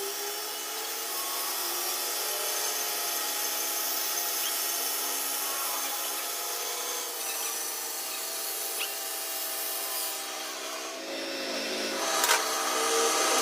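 A workshop power tool running steadily while working on a gear, a constant whining hum with a rasping hiss. The sound changes about eleven seconds in, and a couple of sharp knocks come near the end.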